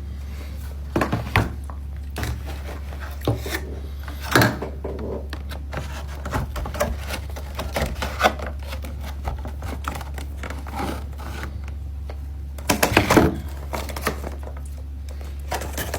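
Scattered light clicks and knocks of cheesecake packaging being handled, with a busier cluster of knocks near the end, over a steady low hum.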